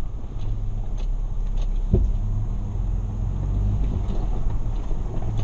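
Toyota FJ Cruiser's V6 engine running steadily at low revs as the truck crawls over a rocky dirt track, with a single knock about two seconds in.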